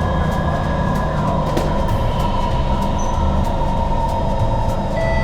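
Metro train heard from inside the carriage as it comes into a station: a steady rumble with a high electric whine.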